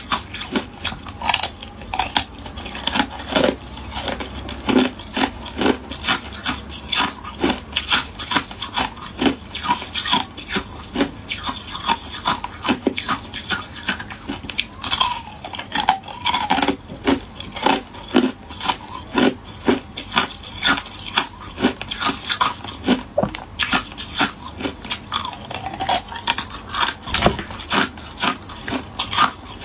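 Hard ice cubes being bitten and chewed: a steady run of sharp, crisp crunches, several a second.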